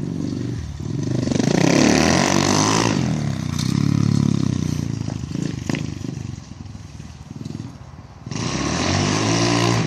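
Dirt bike engine revving up and easing off in waves, with a couple of sharp knocks in the middle and a sudden hard rev about eight seconds in.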